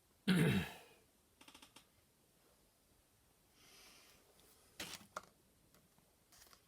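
A short breathy vocal sound falling in pitch, then a few faint clicks, a soft rustle and some light taps.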